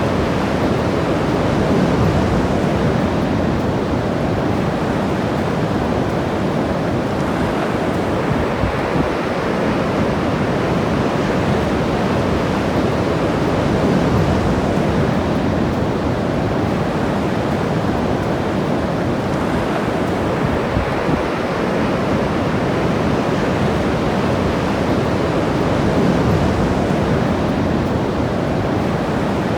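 Ocean surf breaking and washing along the shore, a steady rushing noise that swells gently every several seconds, with some wind on the microphone.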